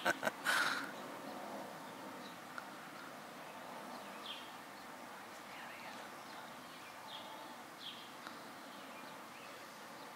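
Quiet outdoor ambience: a steady faint hiss with a few faint, short bird chirps scattered through it. There is a brief louder burst of noise within the first second.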